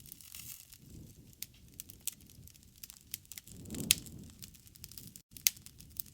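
Wood fire crackling with frequent sharp pops over a low rumble of flames that swells for about a second in the middle, where the loudest pop falls, with another strong pop near the end.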